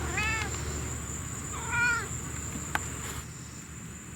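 Domestic cat meowing twice, two short calls with a rise and fall in pitch, the second louder.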